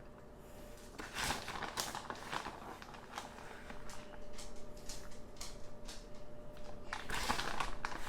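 Crinkling and rustling of a food packet with light clicks and taps while more cheese is added to the dip, starting about a second in and louder near the end.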